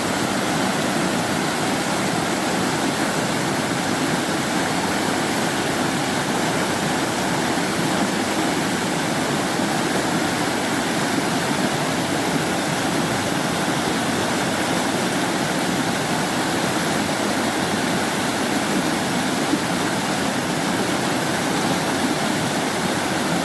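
Mountain stream water rushing steadily and evenly.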